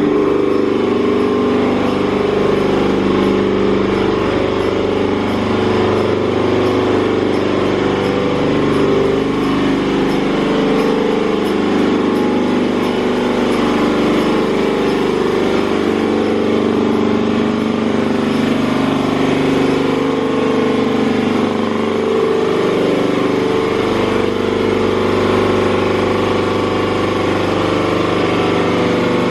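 Mark VII SoftWash XT automatic car wash running, a loud, steady mechanical drone with a shifting hum.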